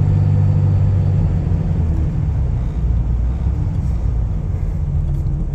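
Truck engine and road noise heard from inside the cab: a steady low drone.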